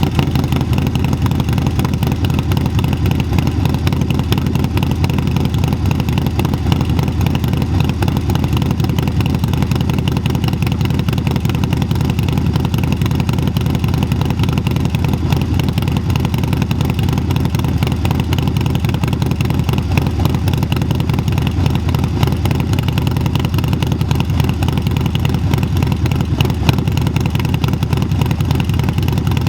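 Harley-Davidson 131 cubic inch Milwaukee-Eight V-twin with a Cyclerama 483 cam, running through an SP Concept exhaust, idling steadily with an even, dense pulsing.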